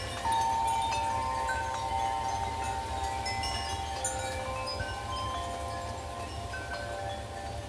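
Wind chimes ringing in gusty wind, many overlapping tones sounding and dying away, with a louder strike about a third of a second in. A steady low rumble runs underneath.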